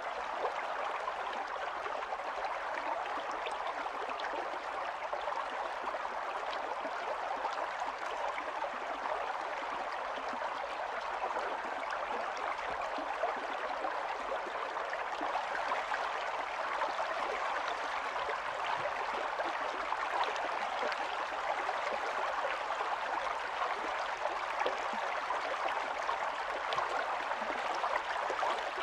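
Small stream running steadily over stones, a continuous burble and splash of flowing water.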